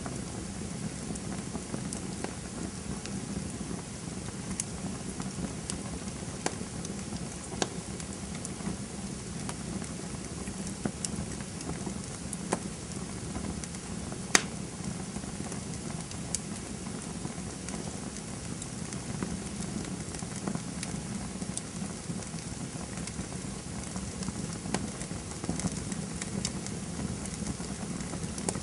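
Campfire crackling: a steady low rush of burning wood with irregular sharp pops and snaps, one louder pop about halfway through.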